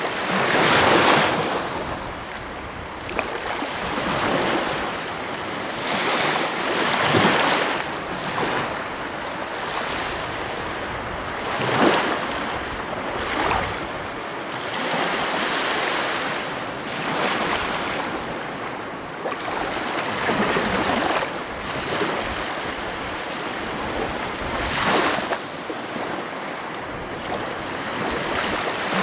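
Heavy ocean waves breaking on the coast: a continuous wash of surf that swells every few seconds as each wave crashes.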